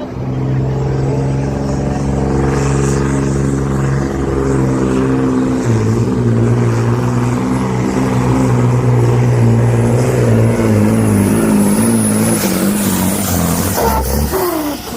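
Supersport pulling truck's diesel engine running hard under load while pulling the weight sled. The engine note drops in pitch about six seconds in, then wavers and sags lower before fading near the end as the truck is bogged down.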